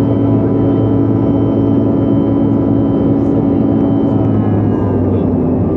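Airliner engines heard inside the passenger cabin during the climb after takeoff, a loud steady drone with several held tones. A few of the tones ease slightly lower after about four seconds.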